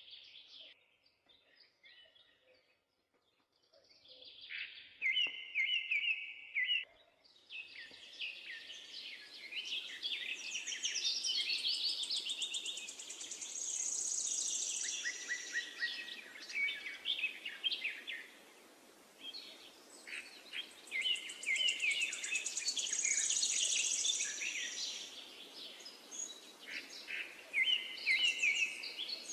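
Small birds chirping and singing, many quick overlapping calls and trills over a steady hiss. The calls are sparse at first and fill in after a few seconds.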